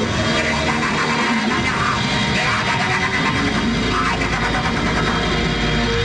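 Grindcore band playing live: loud distorted electric guitar in a dense, continuous wall of noise.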